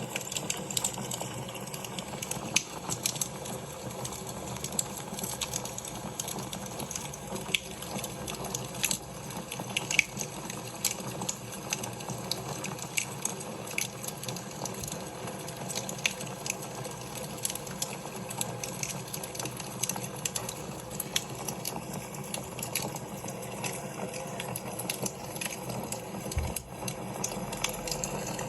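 Fire crackling in a fireplace: a steady hiss of flames with irregular sharp pops and snaps throughout.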